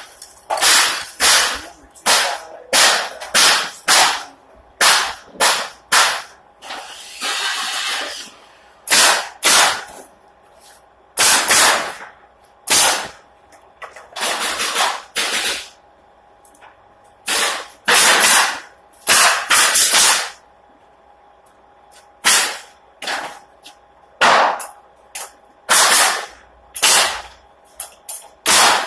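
Pneumatic nail gun firing into pallet boards, about twenty sharp shots at irregular spacing, some in quick pairs, with a couple of longer air hisses between them.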